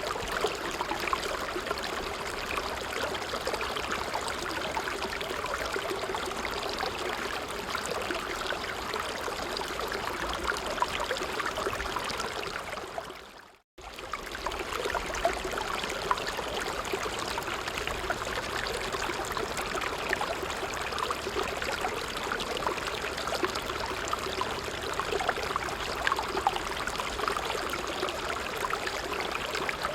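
Stream water running steadily. About halfway through it fades out to silence for a moment and comes straight back.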